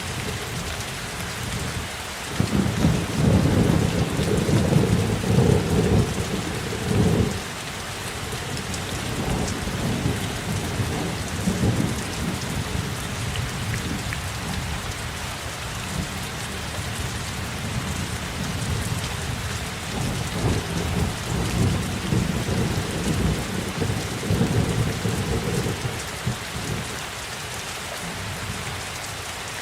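Steady rain falling, with rolls of thunder rumbling low underneath: the loudest roll from about two to seven seconds in, and a weaker one about two-thirds of the way through.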